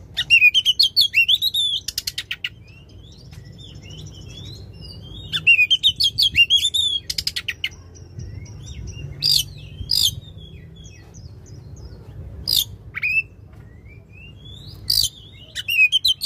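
Oriental magpie-robin (kacer) singing loudly in about five phrases of sliding whistled notes, separated by short pauses, with fast rattling bursts at the ends of two of them.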